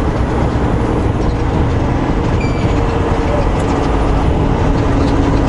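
Truck's engine and road noise heard inside the cab while driving: a steady, even drone with faint humming tones.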